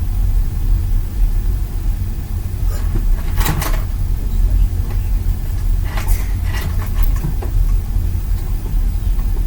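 Steady low rumble of handling noise on a hand-held microphone, with two short bursts of clatter about three and a half and six seconds in as things are moved about in a search.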